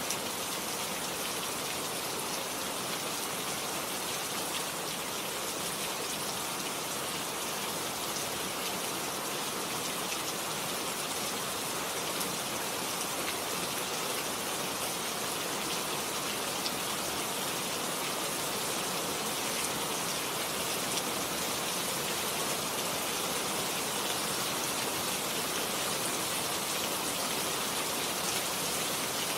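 Steady rainfall, the drops pattering evenly on surfaces.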